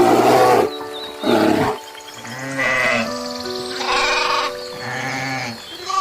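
Goats bleating about five times in a row, each call short and wavering, over background music.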